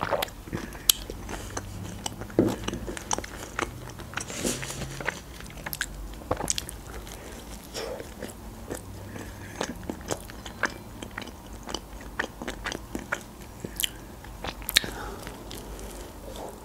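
Close-miked chewing and biting of homemade pizza, with many small wet mouth clicks and crunches.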